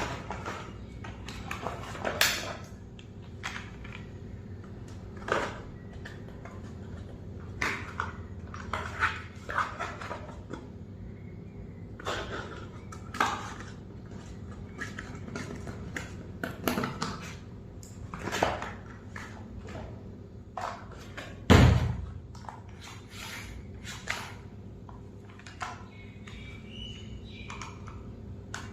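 Irregular clicks, taps and knocks of hard objects being handled, over a steady low hum, with one heavier thump about three quarters of the way through.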